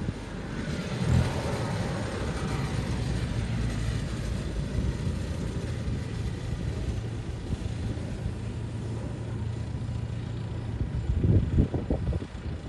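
Tractor engines running steadily with a low hum, briefly louder about a second in and again near the end as one comes closer.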